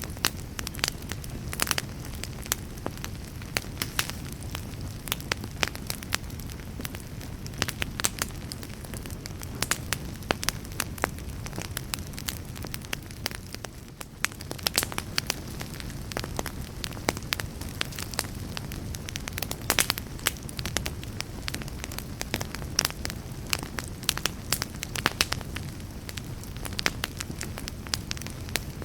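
Wood fire burning in a fireplace: a steady low rumble of flames with frequent sharp crackles and pops, irregularly spaced.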